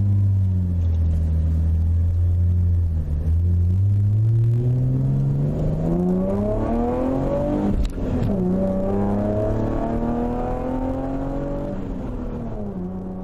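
Chevrolet Camaro V6 with an MRT version 1 aftermarket exhaust being revved. It idles, the revs climb slowly for several seconds, dip briefly about eight seconds in, climb again, then drop back to idle near the end.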